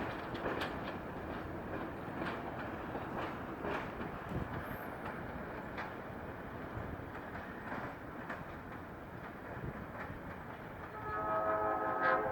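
Passenger train rolling past, its wheels clicking irregularly over the rail joints and crossing. About eleven seconds in, a locomotive's multi-chime air horn (a Nathan K5LA) starts to sound and is the loudest part.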